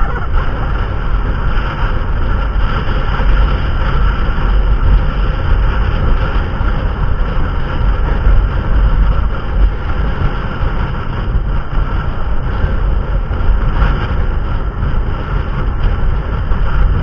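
Motorbike on the move: steady engine and road noise with a heavy wind rumble on the microphone.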